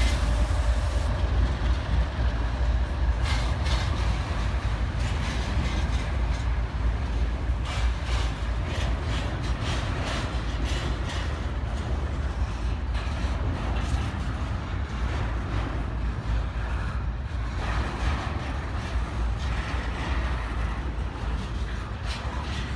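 Train rolling past on the rails: a steady low rumble with irregular clicks and knocks from wheels and cars, easing off slightly towards the end.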